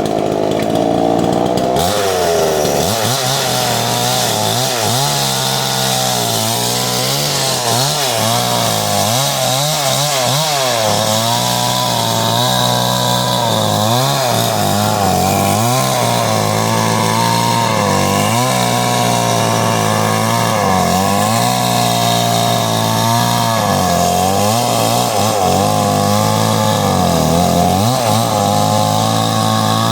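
Chainsaw running hard through a coconut trunk, its engine pitch dipping and rising again and again as the chain bogs and frees in the hard wood.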